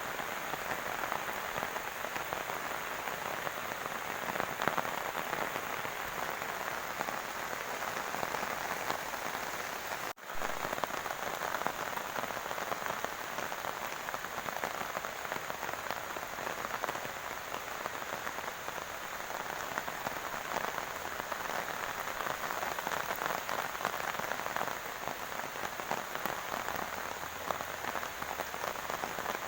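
Heavy rain falling steadily on a grassy field, a dense even hiss. The sound cuts out for an instant about ten seconds in.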